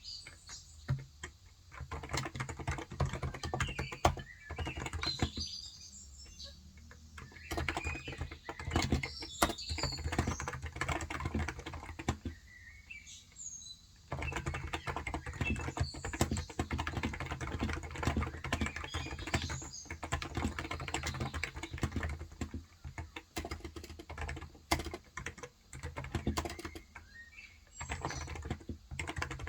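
Typing on a Cox Endeavor electro-capacitive 35 g tenkeyless keyboard, with quick runs of keystrokes broken by brief pauses. Birds chirp faintly in the background.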